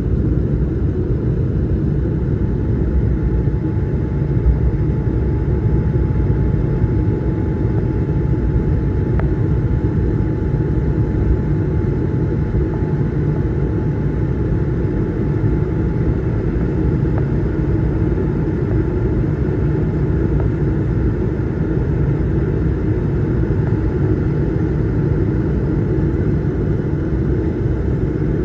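Steady cabin noise of an Airbus A220-300: an even, continuous low rumble of engines and airflow, with a faint steady whine above it.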